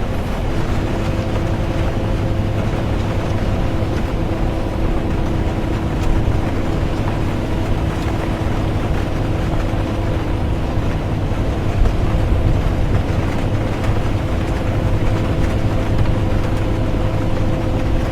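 Interior of a bus driving in the rain: a steady low engine and road rumble with a constant hum, the even noise of tyres and rain, and small bumps now and then.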